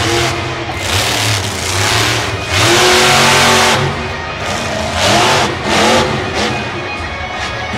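Monster truck's supercharged V8 revving hard in repeated bursts, rising and falling, the loudest surge held for about a second midway and two shorter ones later.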